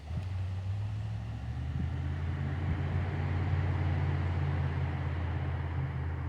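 A steady, low engine hum that starts abruptly, with a hiss that swells in the middle.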